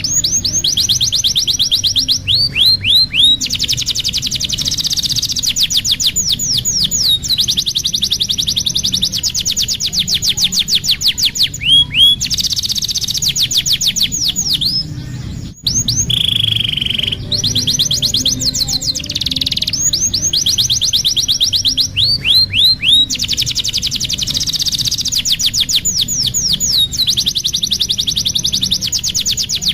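Domestic canary singing a long continuous song of fast, even trills and rapid downward-sweeping notes, breaking off briefly about halfway before going on.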